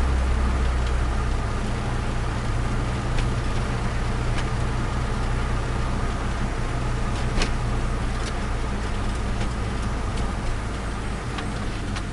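Turbocharged Nissan Micra engine idling steadily, a low even drone that eases slightly near the end, with a few light ticks.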